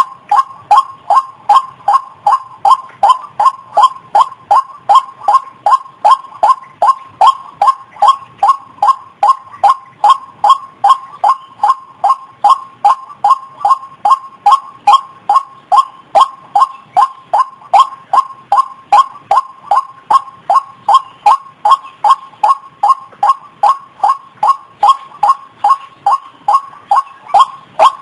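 White-breasted waterhen calling: a steady, unbroken run of short repeated notes, about two and a half a second.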